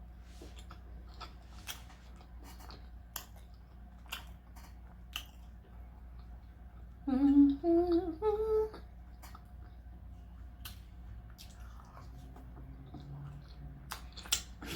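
Close-up eating sounds: chewing on tacos with small wet mouth clicks, and a short hummed "mmm" in three rising notes about seven seconds in.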